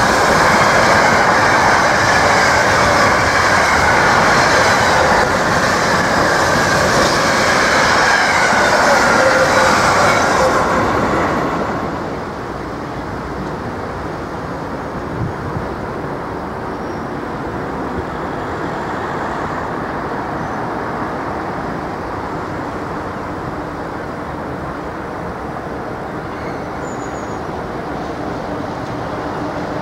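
Container wagons of a freight train passing close by at speed, a loud rolling rush with wheel squeal, ending about twelve seconds in. Then a quieter steady rumble of a diesel locomotive approaching from a distance.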